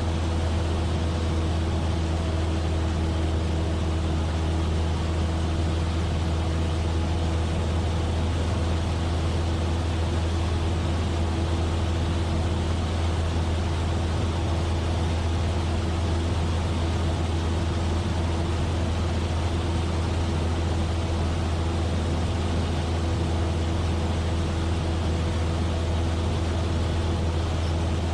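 Cessna 172F's Continental O-300 six-cylinder engine and propeller running steadily, a constant low drone with no change in pitch.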